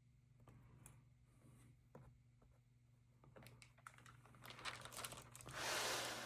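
Faint paper and plastic handling of a stamp album: scattered small clicks and crinkles as pages and stamp mounts are handled, a quick run of sharper clicks, then a longer rustle near the end as a page is turned.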